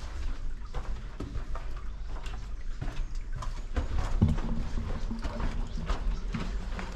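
Footsteps on hard, stony ground: irregular knocks about two a second over a low rumble of handling noise.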